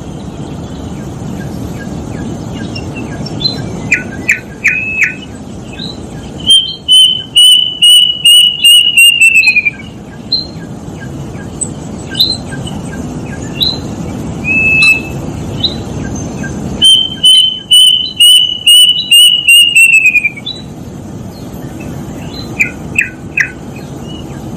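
Plaintive cuckoo (kedasih) singing twice: each time a run of about eight clear whistled notes that slides down in pitch at the end. Short quick chirps come in between, over a steady low background noise.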